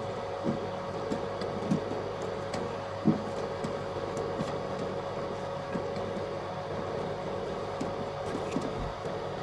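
A machine running with a steady hum and a constant mid-pitched tone, with scattered light knocks and clicks; the loudest knock comes about three seconds in.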